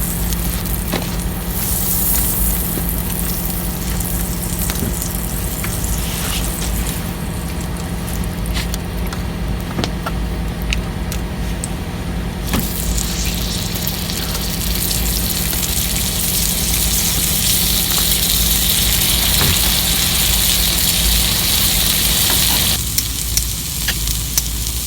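Sukiyaki broth simmering and sizzling in a lidded pot over a wood campfire, a steady hiss with a few sharp crackles near the end.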